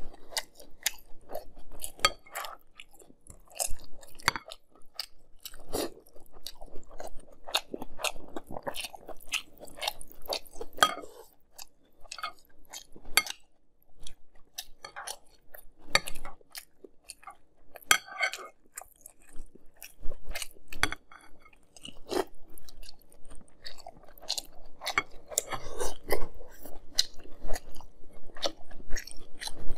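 A person chewing mouthfuls of Fruity Pebbles cereal in milk, with many sharp, irregular crunches.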